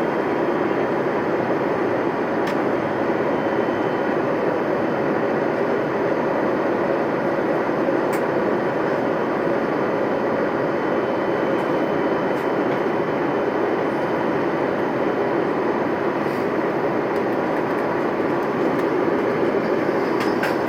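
Steady in-flight cabin noise of an Airbus A321neo: an even, unbroken rush of airflow and engine noise heard at a window seat, with a faint high steady tone.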